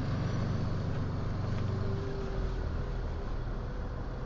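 Flatbed tow truck's engine running steadily as the truck drives slowly, a low even hum with a hiss of road or water noise beneath it.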